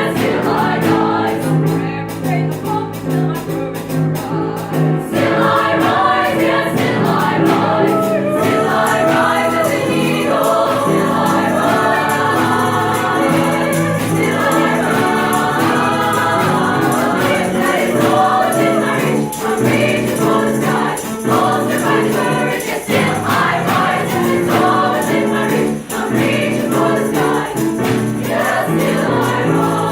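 High school choir singing, holding sustained chords throughout.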